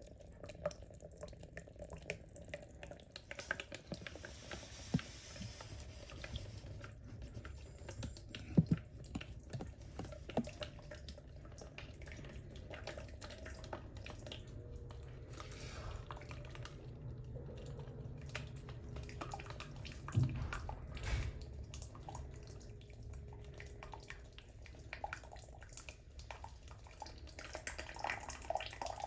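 Water dripping and trickling, with a low steady rumble underneath. A few sharp knocks stand out, the loudest about nine seconds in and a pair about twenty seconds in.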